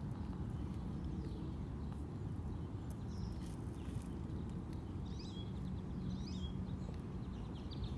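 A steady low rumble with a small bird chirping in short, warbling calls, a few at a time, from about five seconds in.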